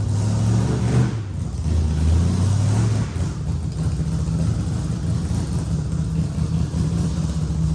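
Car engine running, its note shifting up and down in the first three seconds, then running steadily.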